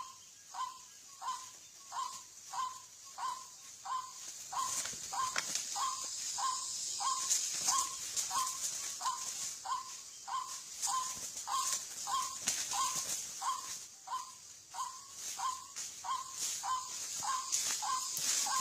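White-breasted waterhen's ruak-ruak call, short notes repeated about three times a second without a break, over a steady high hiss.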